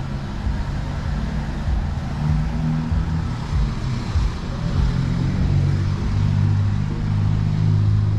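Hyundai Veloster Turbo's 1.6-litre turbocharged four-cylinder idling: a steady low engine hum that grows a little stronger in the second half.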